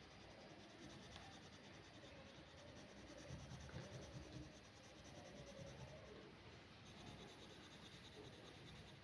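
Faint scratching of drawing strokes on paper.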